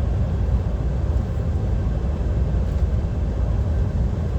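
Steady low drone heard inside the cab of a DAF XF 530 truck at motorway speed: its diesel engine and the road and tyre noise, with no single event standing out.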